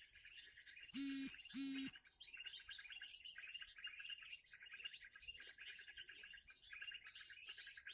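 Small birds chirping in fast, high, repeated notes without a break. About a second in come two short, loud buzzy honks, one right after the other.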